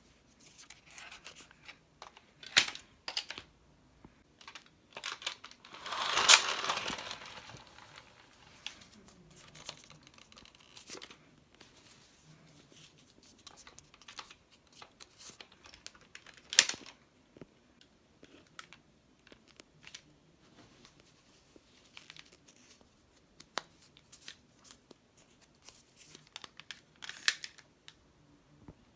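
Handling noises in a small room: scattered sharp clicks and knocks, with a longer rustling, crinkling noise about six seconds in.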